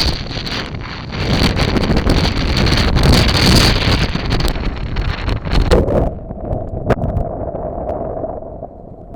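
Storm wind gusting hard against the microphone. About six seconds in the gust drops away sharply to a quieter, lower rush with a steady tone in it.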